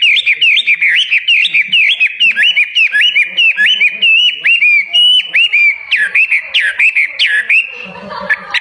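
Songbird singing a fast run of loud, repeated whistled notes, several a second, with one longer held note about halfway through.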